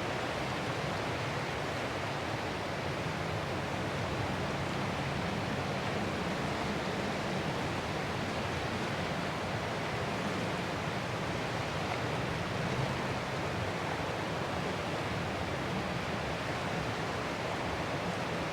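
Ocean surf as a steady, even rush of noise, with no single wave breaking or swell that stands out.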